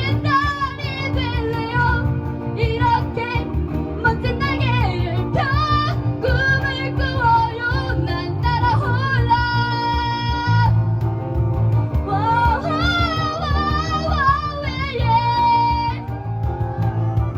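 Live rock band playing: a woman sings the lead over acoustic and electric guitar, bass guitar and cajon. About halfway through she holds one long high note.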